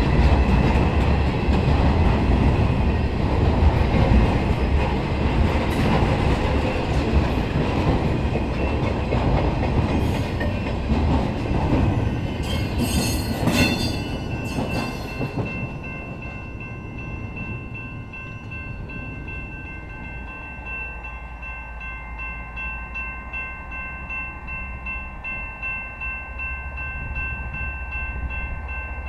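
Intermodal freight train of semi-trailers on flatcars rolling past close by, its wheels rumbling with some clatter over the rails. About halfway through the last cars go by with a few sharp clacks, and the sound drops to a fading rumble.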